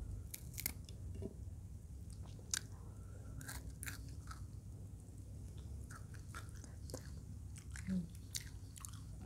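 Biting and chewing fried eel in balado chili sauce: irregular small crunchy clicks, a few each second.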